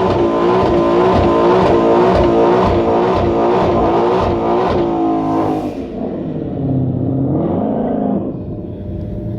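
Ford Mustang Shelby GT500's supercharged V8 revving hard, its pitch rising and falling about twice a second. About six seconds in it drops away, then rises and falls once more.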